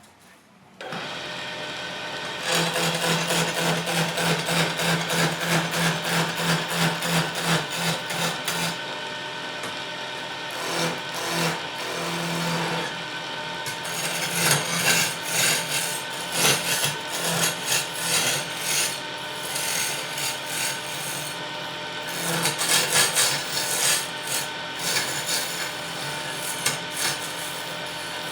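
A wood lathe starts running about a second in. A tool is then worked against the spinning wood in rhythmic rubbing strokes, about two a second, which ease off briefly midway before resuming.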